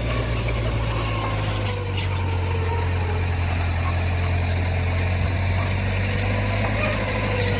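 Heavy diesel engine of earthmoving equipment running steadily with a low, even hum, a few faint ticks in the first two seconds.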